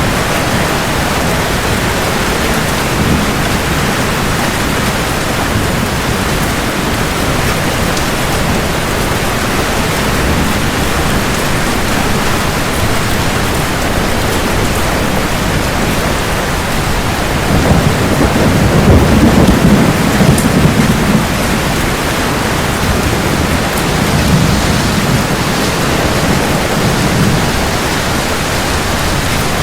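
Steady heavy rain with rolling thunder: a long low rumble swells up a little past halfway through, and a weaker rumble follows a few seconds later.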